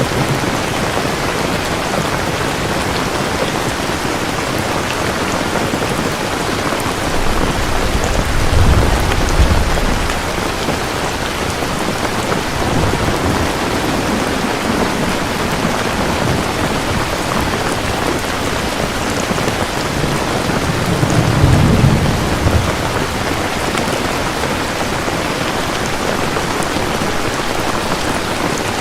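Steady heavy rain falling, with low rolls of thunder rumbling twice, about a third of the way in and again about three-quarters through.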